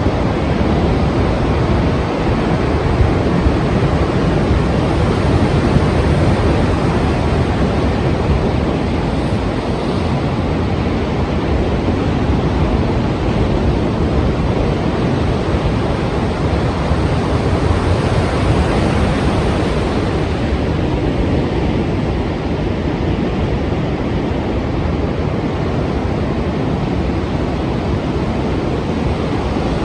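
Strong ocean waves breaking in continuous surf: a steady, dense wash of water noise with no let-up, easing slightly in the last third.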